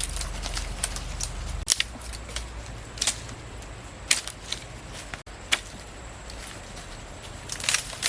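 Irregular sharp clicks and crackles, scattered and bunched near the end, over a low rumble that stops suddenly after about a second and a half.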